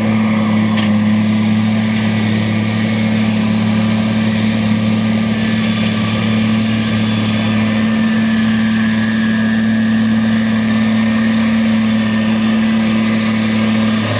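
Fendt 936 tractor's six-cylinder diesel engine running steadily at constant speed, working a Claas 5300 FC big square baler.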